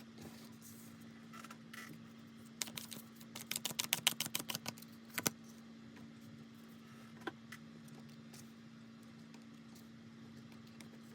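A quick run of about a dozen light clicks and taps over two or three seconds, with a single click a couple of seconds later, over a steady low hum.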